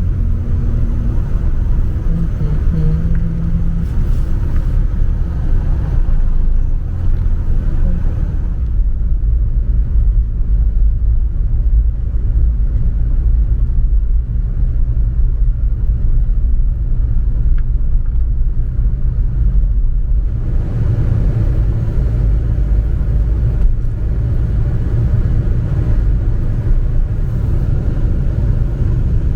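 A car on the move, its engine and road noise making a steady low rumble. The higher hiss drops away from about nine seconds in and returns about twenty seconds in.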